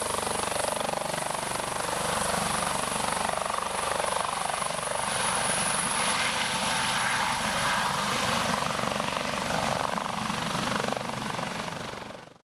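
An air ambulance helicopter running steadily, its rotor chop and engine noise filling the scene.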